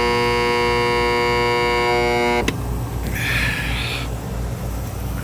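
Intex pool pump motor buzzing steadily while stalled, not turning over: the hum of a locked rotor, which the owner suspects comes from a bad start capacitor. The buzz cuts off suddenly about two and a half seconds in, followed by a short hiss about a second later.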